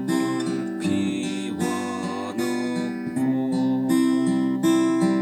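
Guitar played in a waltz strum pattern: bass notes alternating under strummed chords, at a steady even beat.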